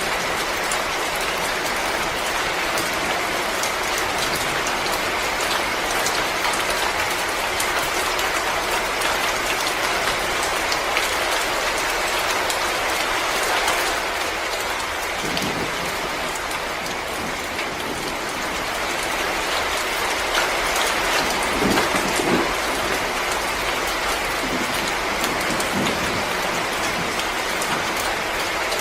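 Wood fire crackling in a fireplace: a dense, steady hiss of small crackles and pops, with a few heavier low pops about halfway through and again a little later.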